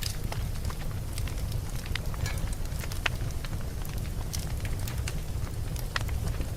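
Wood fire burning steadily, with many sharp, irregular crackles and pops over a low, steady rumble.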